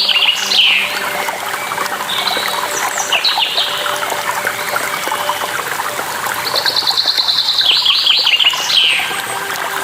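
A songbird singing a rapid trilled phrase that ends in quick downward notes, heard several times over the steady trickle of running water.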